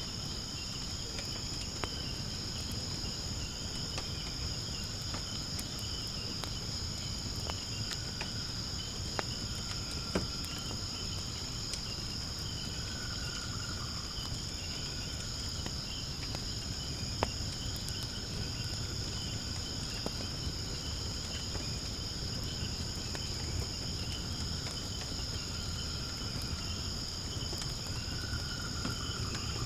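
Wood burning in a fire pit, with a few sharp crackles and pops, over a steady high-pitched chorus of insects.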